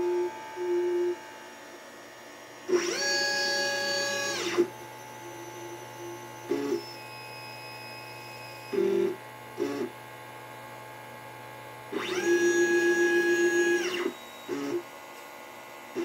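Stepper motors of a LitePlacer pick-and-place machine whining as the head makes two long moves, the pitch rising as each move speeds up and falling as it slows. Several short buzzes from brief moves come between them.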